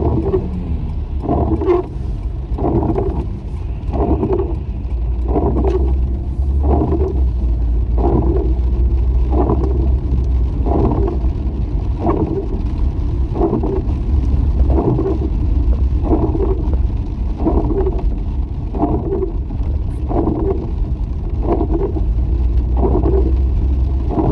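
Car cabin in the rain: steady engine and road rumble, with the windshield wipers sweeping in an even rhythm, about three sweeps every four seconds.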